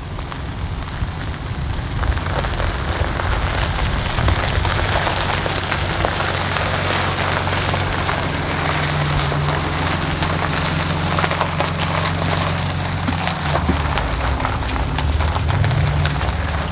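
Ford Raptor pickup driving: a steady low engine drone, shifting slightly in pitch, under a dense crackling hiss of road and tyre noise.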